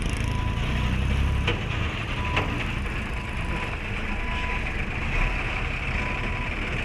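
Idling truck engines with a steady high hiss. The low engine rumble eases about a second and a half in, and two sharp clicks come around a second and a half and two and a half seconds in.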